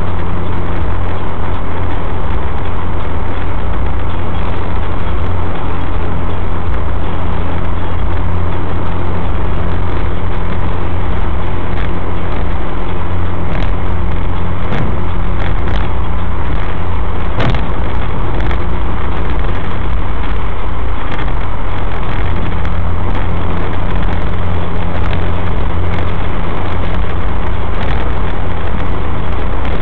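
Suzuki SX4's four-cylinder engine, breathing through a K&N Apollo intake filter, pulling steadily at highway cruising speed. Heard from inside the cabin as a constant low drone mixed with tyre and road noise, with no revving.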